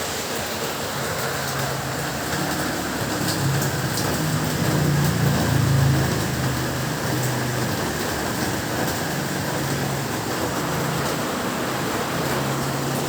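Heavy rain falling steadily, with a low rumble that swells about halfway through and then eases off.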